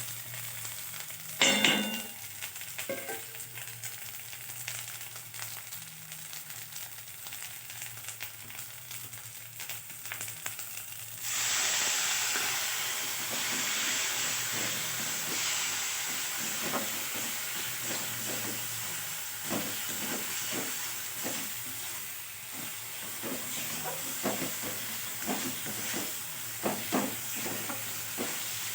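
Onion, ginger and ground spices frying in mustard oil in a kadai, with a sharp clatter of a spoon against the pan about a second and a half in. About eleven seconds in, the sizzling suddenly turns louder and holds, with repeated short scrapes and knocks of stirring through the rest.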